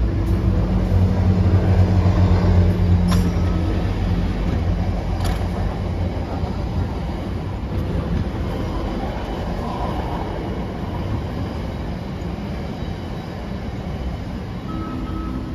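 A train running past, with a loud low rumble and steady low hum during the first few seconds, then gradually fading.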